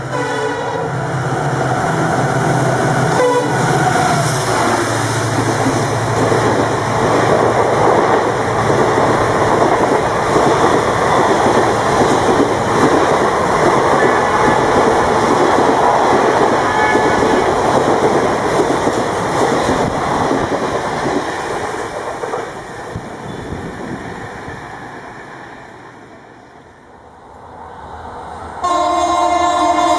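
WDG-4 (EMD GT46MAC) diesel locomotive and its express train passing at speed. A horn ends about a second in, followed by a long spell of rolling wheel and coach noise with clickety-clack on the rail joints that dies away a few seconds before the end. Near the end a steady multi-tone locomotive horn blast starts suddenly.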